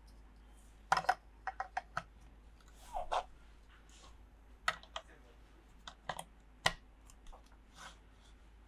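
Small plastic toy pieces clicking and tapping as they are handled and set down, in a dozen or so sharp, irregular clicks with a few soft rustles between them.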